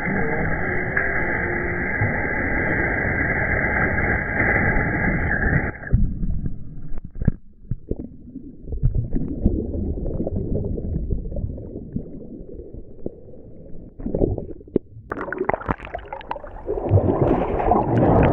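Muffled surf churning and gurgling around a GoPro in the ocean waves. There is a steady rush for about six seconds, then lower, uneven sloshing, and louder splashing over the last few seconds.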